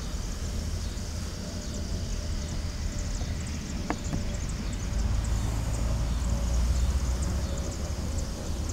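Low, steady rumble of an approaching Norfolk Southern freight train still some way off, swelling about five seconds in.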